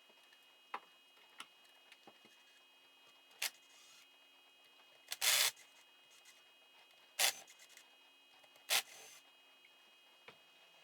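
Hand work on a Yamaha YZ85 engine being taken apart: scattered light clicks and taps of tools and metal parts, with a few short scrapes, the longest about five seconds in and two sharper ones near the end.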